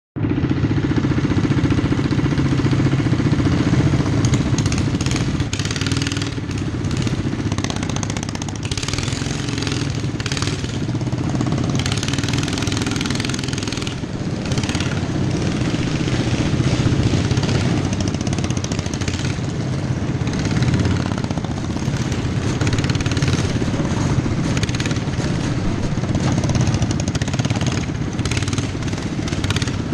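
Several racing lawnmower engines running together, loud and steady, with many brief clattering knocks mixed in.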